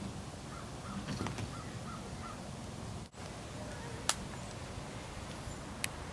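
Background hiss with a bird calling a quick run of about six short notes in the first two seconds. Then a sharp click about four seconds in and a lighter one near the end, as a metal ration tin is handled.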